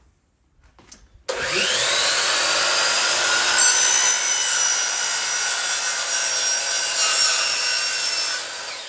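Power miter saw starting about a second in, spinning up and cutting aluminum screen track with a steady, high whine, then winding down near the end.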